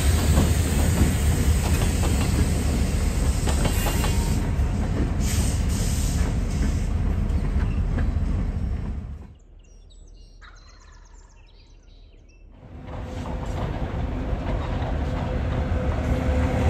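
Two Canadian Pacific diesel locomotives and a single empty covered hopper rolling past close by: a steady low engine rumble mixed with wheel noise. About nine seconds in the sound drops sharply for about three seconds, then the train's rumble comes back and builds as it moves off.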